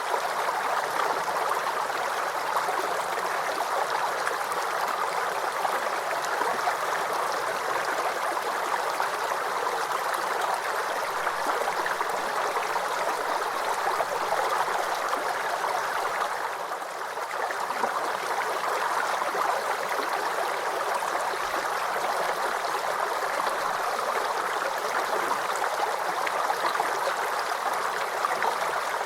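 Small creek babbling and gurgling over stones, a steady trickling rush of water. It dips briefly in level a little past halfway.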